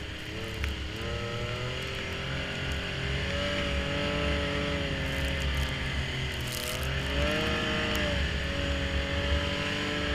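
Snowmobile engine running under changing throttle, its pitch dropping and climbing again twice.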